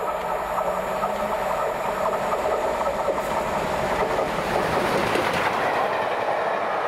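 A train passing on the line, its wheels running over the rails with a steady rolling noise and some clickety-clack.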